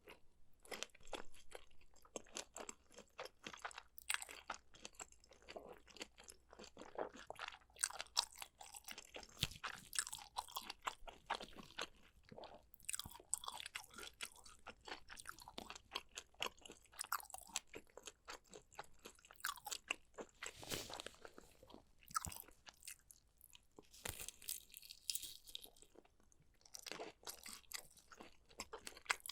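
A person eating: steady crunching and chewing, with sharp bites scattered throughout.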